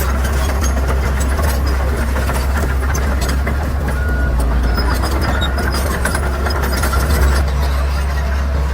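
Bulldozer's diesel engine running steadily with a deep low drone, with scattered small clicks and rattles over it.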